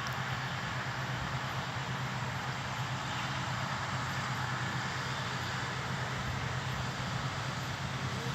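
Steady drone of harvest machinery at work in the field: a low hum under an even hiss.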